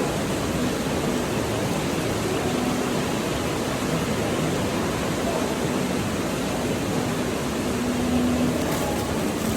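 Steady rain falling, an even hiss without distinct drops or breaks.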